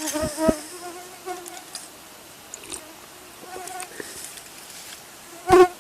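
Flying insects buzzing in short passes, with one loud, close pass shortly before the end.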